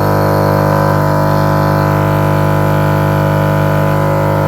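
Cheap Chinese-made household gas compressor machine with a small motor, turned up to full and running with a loud, steady droning hum; a lot of noise for such a machine.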